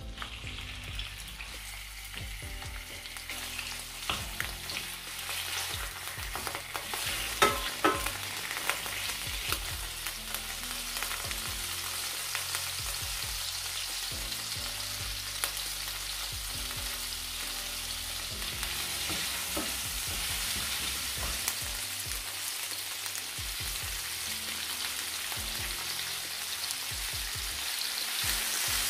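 Raw prawns frying in hot olive oil in a nonstick pan, the sizzle building steadily louder. A few sharp knocks about seven to eight seconds in.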